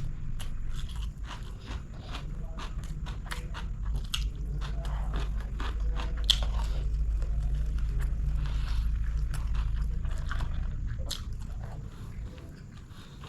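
Close-miked eating of chicken biryani: chewing and biting with many small sharp mouth clicks and crunches, over a steady low hum.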